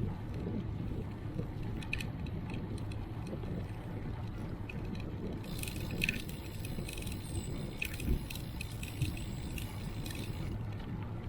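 Ride noise from a moving bicycle: a steady low rumble of wind and road. About halfway through, a run of light clicks and rattles starts and continues until near the end.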